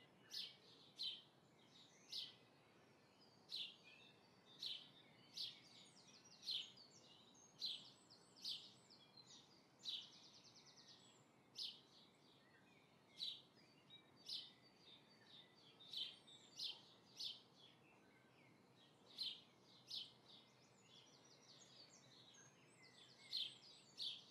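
Faint small birds chirping: short high chirps about once or twice a second, with a few brief buzzy trills.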